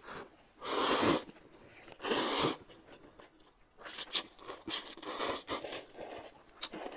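People slurping noodles in broth: two long, loud slurps about one and two seconds in, then a run of shorter slurps.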